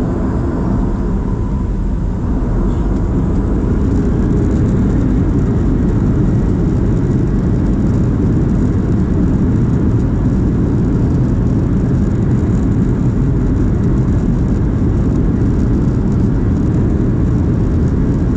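Boeing 737-700's CFM56-7B jet engines at takeoff power during the takeoff roll, a steady, loud roar that builds over the first few seconds and then holds.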